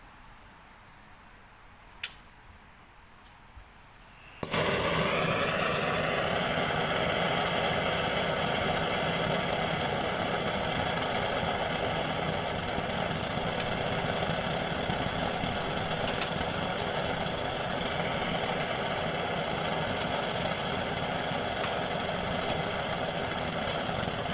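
A small motor or blower starts suddenly about four seconds in, its pitch rising briefly as it spins up, then runs steadily with an even hum for about twenty seconds before cutting off abruptly.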